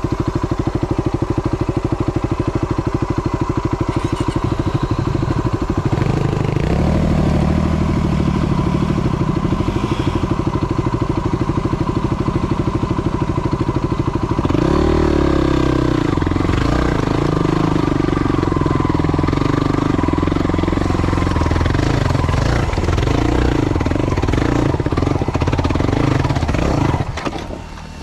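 Yamaha WR250 single-cylinder four-stroke dirt bike engine, chugging at low revs, then revving up about six seconds in and again about halfway through, then running on under throttle. Near the end the engine note drops away briefly.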